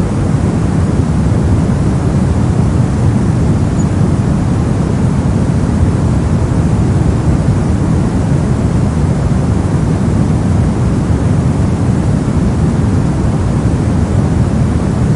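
Steady soft noise of the white-noise-for-sleep kind, an even, unchanging hiss weighted heavily toward the deep end, with little treble.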